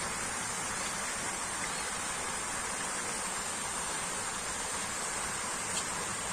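Steady rushing of flowing water, an even hiss with no change, and a faint tick near the end.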